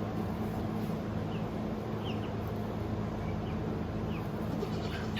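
Steady low hum, with a few faint, short high chirps scattered through it.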